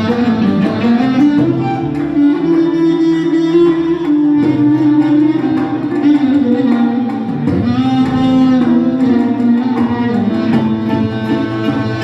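Instrumental Turkish folk tune played on an electronic keyboard (org), with a held, sliding melody over a steady percussion accompaniment.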